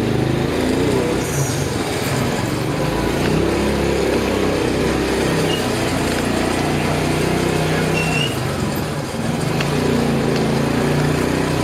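Motorcycle engine running steadily during a ride, its pitch shifting a little as the speed changes, with street noise around it.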